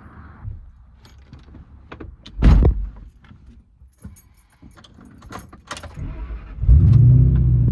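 Keys jangling and clicking, a heavy thump about two and a half seconds in, then a truck engine starting near the end and running steadily.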